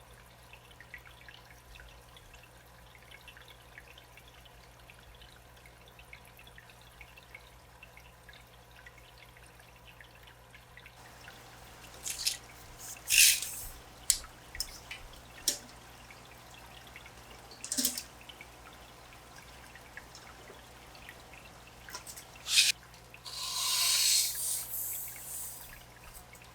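Water dripping and splashing during aquarium setup: a quiet first half, then separate drips and splashes, followed by a few seconds of pouring water near the end.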